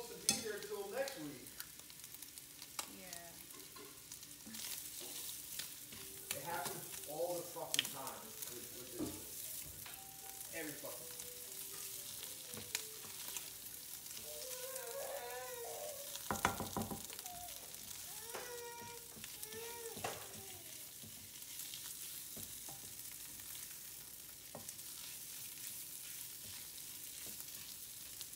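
Shredded chicken and tomato paste sizzling in a white granite-coated nonstick pan as a spatula stirs and scrapes it around, with one louder knock about halfway through.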